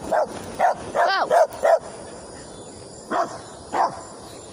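A dog barking in short separate barks, a quick run of about five in the first two seconds, then two more a little after three seconds in, directed at someone on foot who is shooing it away.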